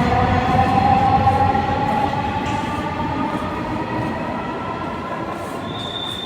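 Dhaka metro train's electric traction motors whining in several even tones over a rolling rumble, the pitch slowly falling and the sound fading as the train slows. A thin high steady tone joins near the end.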